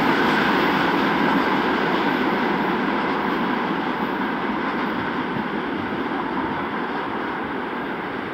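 A train running along the track, a steady rolling noise that slowly fades as it moves away.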